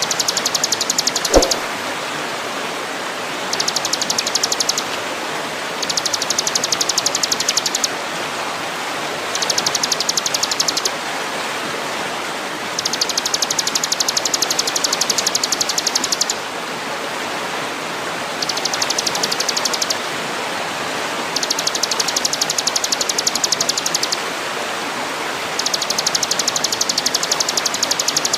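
Songbird training recording: a rapid, high-pitched pulsing trill comes in repeated bouts of one to three seconds, with short gaps, over a steady rushing hiss like running water. A single sharp click sounds about a second in.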